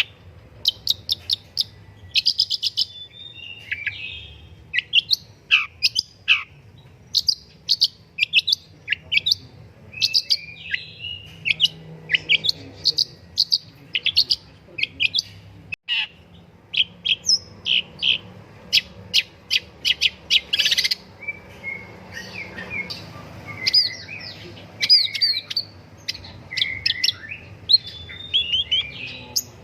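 Long-tailed shrike singing in full voice: a busy, continuous run of short sharp chirps and rapid chattering note trains, mixed with a few quick falling whistles.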